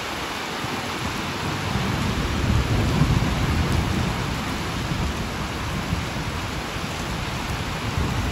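Rain falling steadily on flooded pavement and standing water, a continuous hiss, with a low rumble that swells for a few seconds in the middle.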